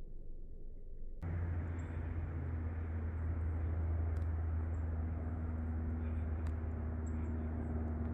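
A steady low mechanical drone with a constant hum, starting abruptly about a second in, with a few faint high-pitched chirps above it.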